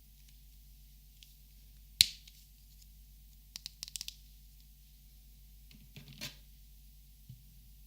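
Plastic Copic markers being handled: one sharp click about two seconds in, a quick run of light clicks and taps about a second and a half later, then a short scrape and a single small tick near the end.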